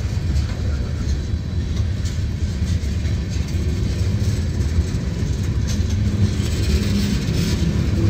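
Norfolk Southern manifest freight train's tank cars and covered hopper rolling past on street track: a steady low rumble of steel wheels on rail.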